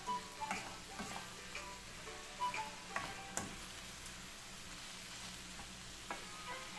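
Rice and browned vermicelli frying with a steady light sizzle in a nonstick pan, stirred with a wooden spoon that scrapes and knocks against the pan every second or so.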